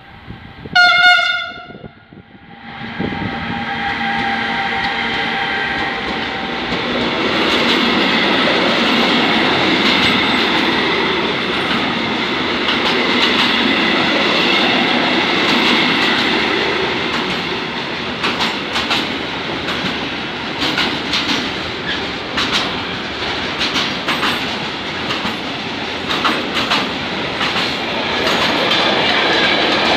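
Two ÖBB 1293 Siemens Vectron electric locomotives at the head of a container freight train sound one short horn blast about a second in. The train then runs past with a steady rumble of wagons and wheels clacking over the rail joints, the clacks sharper and more frequent in the second half.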